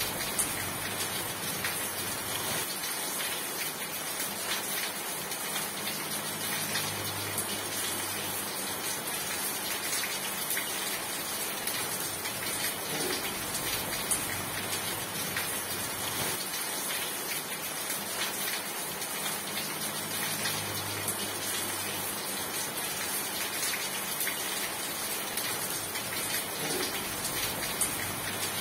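Steady heavy rain: an even, dense hiss of drops falling on a surface, with a faint low hum coming and going twice.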